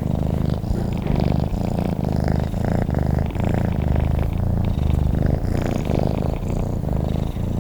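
Domestic cat purring close to the microphone: a steady low rumble that swells and eases with each in- and out-breath.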